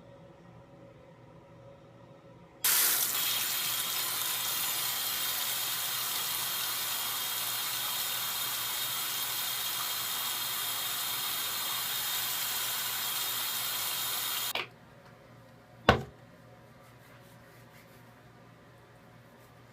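A steady rushing noise starts suddenly a few seconds in and cuts off abruptly about twelve seconds later. It is followed by one sharp click.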